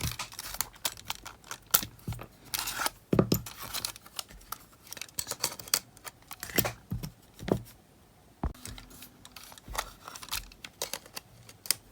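Irregular clicks, taps and rattles of small plastic and metal parts as a Panasonic RQ-S60 cassette player is handled and fitted back together.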